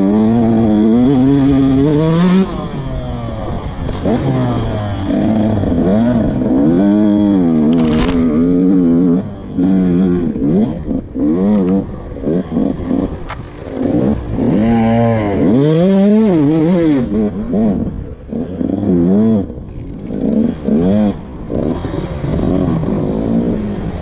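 KTM 125 SX two-stroke dirt bike engine under hard riding, its pitch climbing and dropping every second or two as the throttle is opened and shut through the gears.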